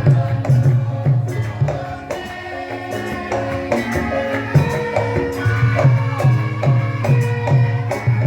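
Traditional Javanese lengger music played live: a steady low drum beat about twice a second under ringing, sustained struck tones and light jingling percussion, easing off for a couple of seconds in the middle.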